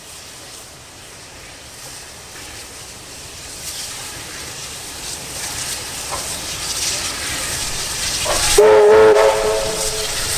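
An approaching train, its steam and rail noise building steadily, then the chime whistle of steam locomotive R766 sounding one loud blast near the end.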